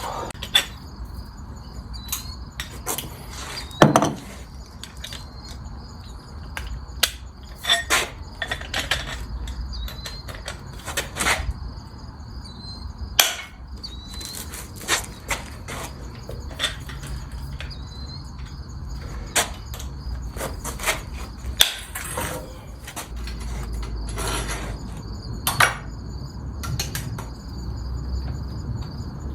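Irregular sharp clicks and knocks, likely hand tools and parts on the engine being worked on, over steady high cricket chirring and a low rumble.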